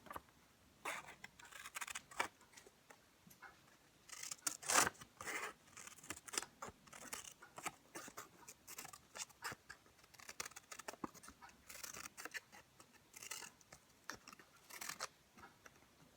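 Scissors snipping into construction paper, with irregular short cuts and paper rustling, the loudest snips about five seconds in.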